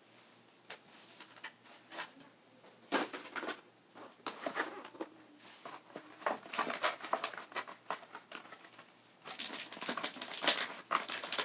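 Packaging of a Pokémon trading card product being handled and opened: irregular crinkling crackles and small taps that thicken about six seconds in and again near the end.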